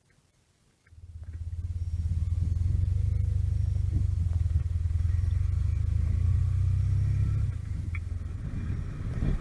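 Motorcycle engine coming in about a second in and running with a steady low hum, then dropping to a lower, quieter running note near the end.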